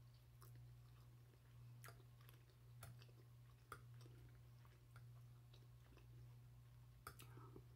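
Very quiet chewing with a few faint clicks of a fork against a glass dish, over a steady low hum.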